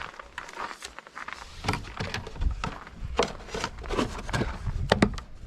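Irregular clicks, knocks and scrapes of a diesel heater hose and its fittings being handled and pushed into place through a canopy's entry port, with a few short squeaks; the sharpest clicks come near the end.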